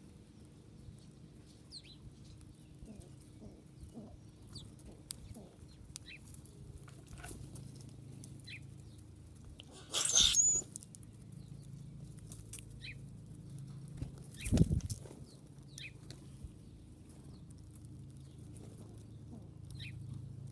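Small birds give scattered short chirps with light tapping and clicking over a steady low hum. About halfway through comes a loud, brief rustling burst, and a dull low thump follows a few seconds later.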